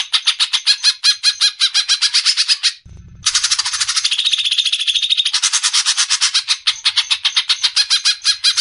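Greater green leafbird (cucak ijo) giving its besetan: a loud, rapid rattling trill of sharp repeated notes, about ten a second, broken by a brief pause about three seconds in before the next run.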